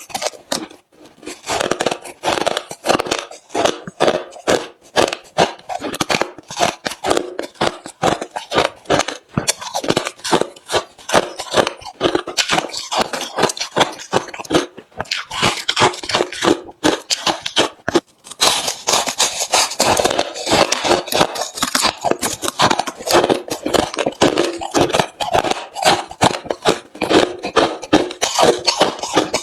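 Close-miked chewing of refrozen crushed hard ice: rapid, continuous crunching, with a few short pauses between mouthfuls.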